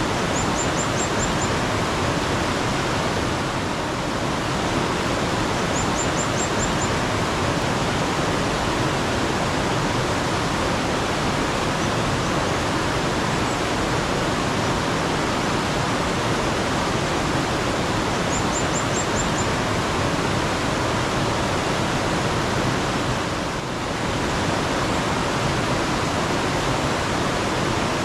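Mountain stream water rushing steadily, with a bird singing a short run of about five quick, high notes three times.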